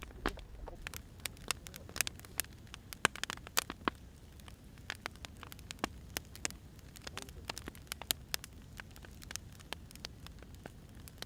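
Wood fire crackling, with irregular sharp pops and snaps over a low steady rush.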